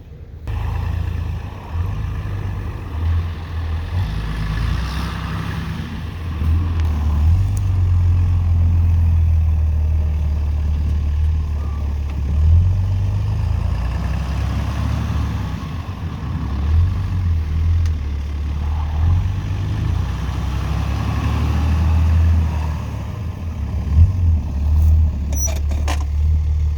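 Diesel dually pickup truck engine running with a steady low drone that swells and dips a little.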